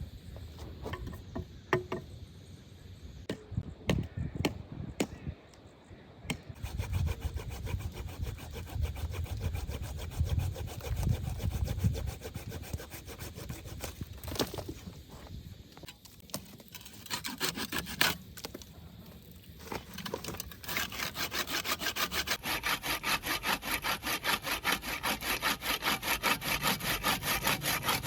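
Hand saw cutting through wood in repeated back-and-forth strokes, after a few scattered knocks at the start. The strokes become quick and even near the end.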